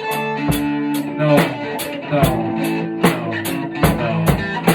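Rock band music: guitar playing sustained notes over a drum kit keeping a steady beat.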